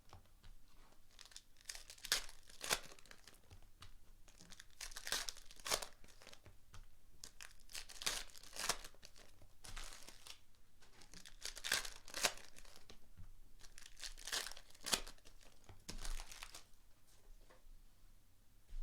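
Trading-card pack wrappers being torn open and crinkled by hand, a string of short, irregular rustling tears that stop about a second and a half before the end.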